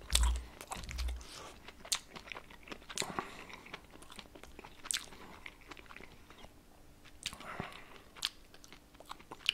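A person chewing crunchy fried food, with irregular crackling crunches throughout and a dull bump near the start.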